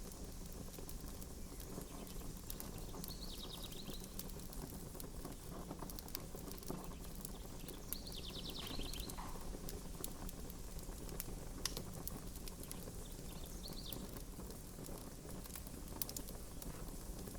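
Campfire crackling, with scattered sharp pops over a steady low hiss. A few short high trills sound four times, each under a second.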